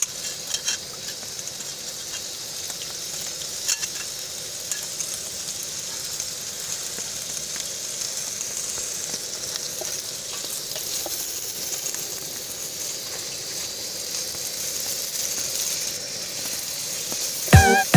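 Whole spices sizzling in hot mustard oil in a pan, a steady frying hiss with a few clicks of a spoon stirring early on. Music with a beat comes in just before the end.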